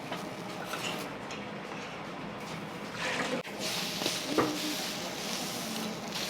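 Steady sizzling and hiss on a flat iron teppan griddle, growing louder about halfway through, with a single sharp metal clink a little later.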